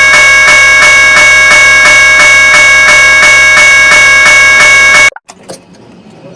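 Railroad crossing warning bell, an early GS type 0, ringing loudly at about three strokes a second, then cutting off suddenly about five seconds in. Faint traffic noise remains after it stops.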